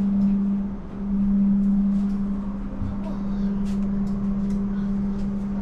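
Steady low-pitched hum from the passenger train's onboard machinery while the train stands at a station, with a few faint clicks around the middle.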